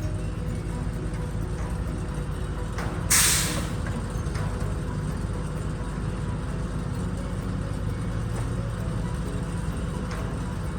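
An engine running steadily, with one short, loud hiss about three seconds in.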